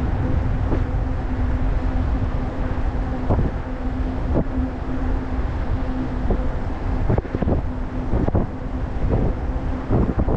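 Wind buffeting the microphone on a moving e-bike, a loud low rumble, with a steady hum underneath. Several short sharp knocks come from about three seconds in.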